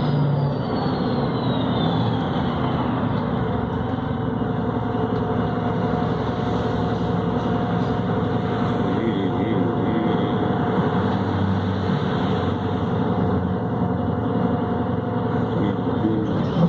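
Volvo B7RLE city bus with a Voith automatic gearbox running under way, with steady diesel engine and drivetrain noise. A thin steady whine runs through most of it.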